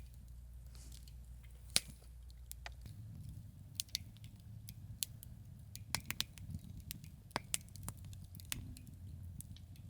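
Wood campfire crackling: irregular sharp pops and snaps, the loudest about two seconds in, over a low rumble.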